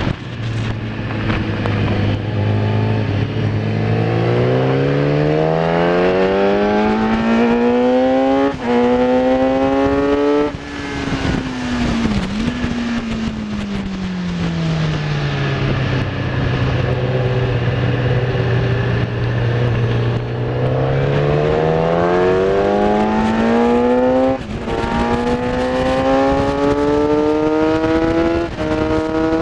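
Kawasaki ZX10R inline-four engine heard onboard at track speed: the note drops and holds low through two slow sections, and in between it climbs hard through the gears, with brief cuts at each upshift. Wind rush runs under the engine throughout.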